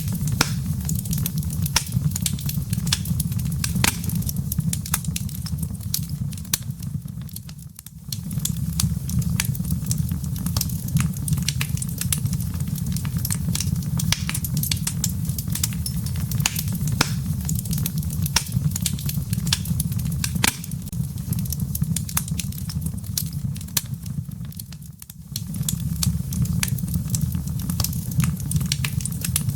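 Wood fire crackling in a fireplace: a steady low rumble of flames with dense, irregular pops and snaps from the burning wood and embers. The sound briefly fades down and comes back twice, about eight seconds in and again about twenty-five seconds in.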